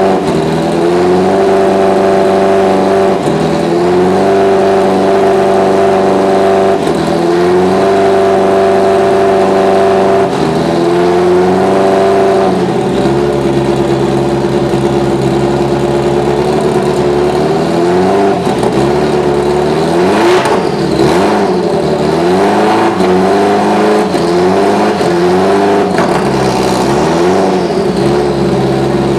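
Subaru Legacy B4 GT300 race car's turbocharged flat-four engine running under test. It is held at steady revs, lifting briefly every three to four seconds, then revved up and down in quick blips through the second half before settling back to a steady lower speed near the end.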